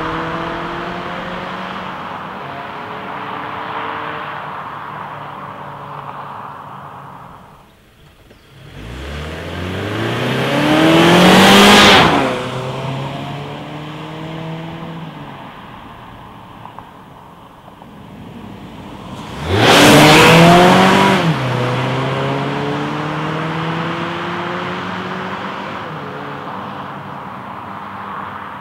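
2016 Mazda6 Sport's 2.5-litre four-cylinder engine at full throttle. The note first falls and fades, then twice revs up steeply to its loudest. Each time it drops suddenly in pitch as the six-speed automatic upshifts, and runs on, fading near the end.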